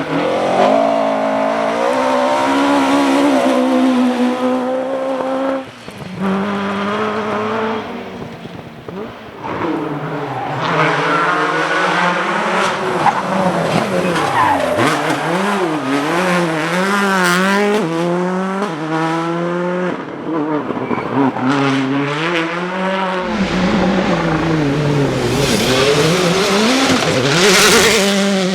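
Rally cars driven hard on a special stage, their engines revving up and dropping back again and again through gear changes and lifts, with quick zig-zagging revs in the middle and some tyre squeal.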